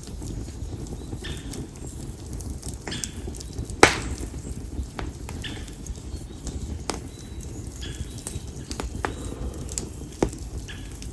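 Campfire of split konara oak logs crackling, with scattered sharp snaps over a steady low rumble of the flames and a louder pop about four seconds in and another near the end.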